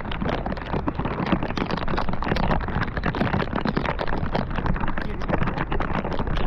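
Storm wind and rain on the microphone: a dense, irregular patter of drops over a steady low wind rumble.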